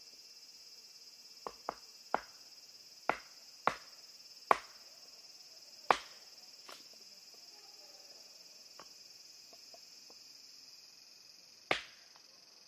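About eight sharp knocks at uneven intervals, most of them in the first half and the last one near the end, over steady insect chirring.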